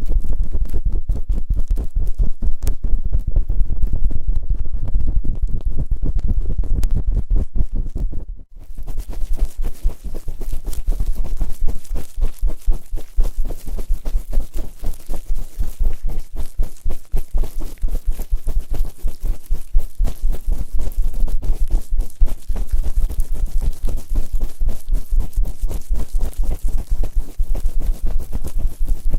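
ASMR ear-cleaning sounds on binaural microphone ears: rapid, rough rubbing and scraping strokes close on the mic, with a heavy low thud in each stroke. The strokes break off briefly about eight seconds in, then resume brighter and grittier.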